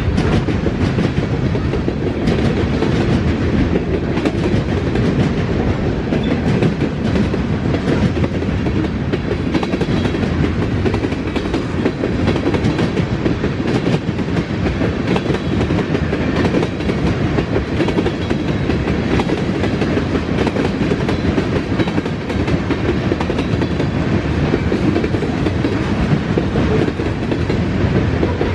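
Freight train cars rolling steadily past, with wheels clacking over the rail joints and a continuous rumble.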